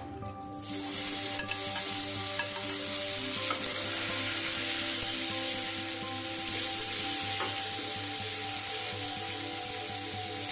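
Tomato wedges dropped into hot oil with cumin and fennel seeds in a stainless steel saucepan, sizzling steadily from about half a second in as they are stirred with a spatula, with a few faint clicks of the spatula against the pan.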